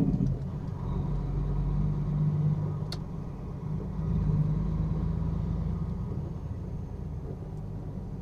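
Semi-truck running down the road: a steady low engine and road drone, with a single short click about three seconds in.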